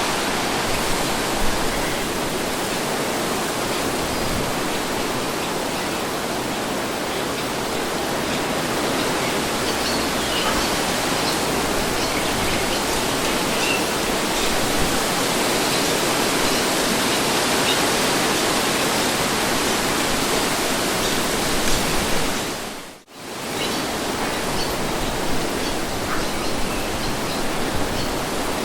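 Steady rushing wind noise of a wind-and-breeze sound effect, even throughout. It fades out almost to silence for a moment about 23 seconds in, then comes straight back.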